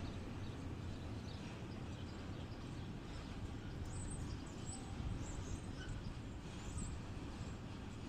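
Container train running past with a steady low rumble, with a few faint high chirps or squeaks in the middle.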